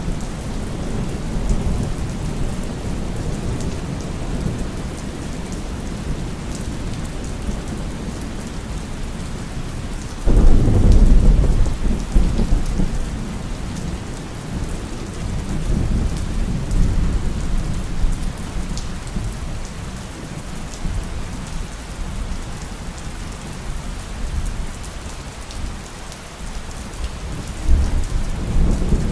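Steady heavy rain, with a sudden loud rumble of thunder about ten seconds in that dies away over several seconds, and softer rolls of thunder later and near the end.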